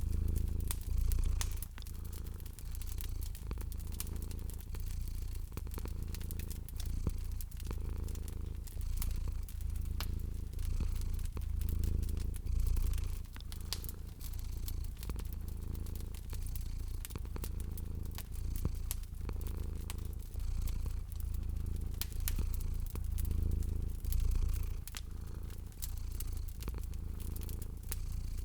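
Domestic cat purring in a low rumble that swells and fades in regular cycles, over the steady clicks and pops of a crackling wood fire.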